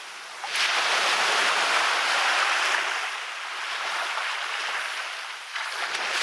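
Waves breaking on a beach. One breaks sharply about half a second in and washes up the shore, then fades, and a second wave breaks near the end.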